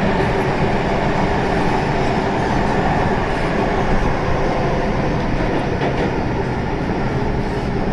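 MTR M-Train (Metro-Cammell electric multiple unit) running on the line: a loud, steady rumble of wheels on rail and running gear.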